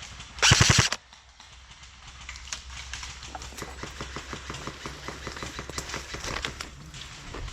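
A short burst of full-auto fire from an electric airsoft rifle, about half a second of very rapid shots, close and loud. After it comes a long run of fainter, rapid, regular clicking.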